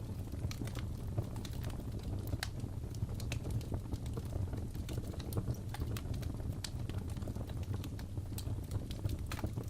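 Crackling fireplace: a low steady rumble of burning wood with irregular sharp snaps and pops.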